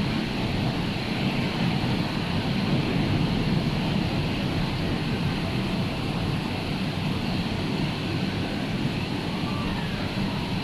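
Rough sea's surf, a steady rumbling roar with no distinct wave breaks.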